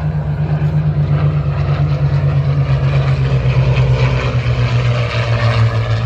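Propeller airplane engine droning steadily overhead, its pitch dropping about five seconds in.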